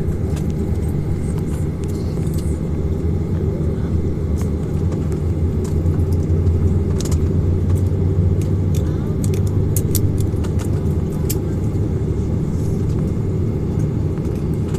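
Steady low rumble inside a Boeing 737-800's passenger cabin on the ground, with a few faint clicks around the middle.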